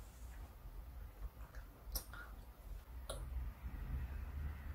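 Faint mouth clicks of children chewing soft popping jelly balls: two short clicks about a second apart, over a low steady hum.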